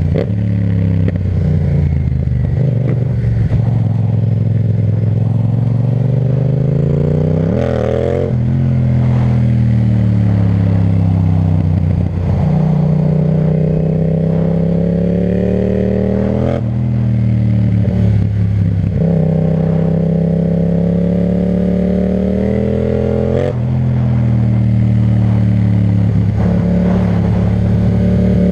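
Yamaha MT-07's parallel-twin engine through an Akrapovic titanium exhaust, under way: the engine note climbs and falls as the bike speeds up and slows. It shifts abruptly in pitch several times, at gear changes or throttle changes.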